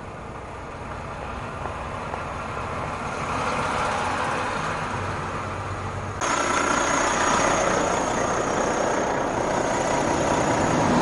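Truck engine running at idle, with a steady noise that slowly builds; about six seconds in, a much louder hiss cuts in suddenly and holds.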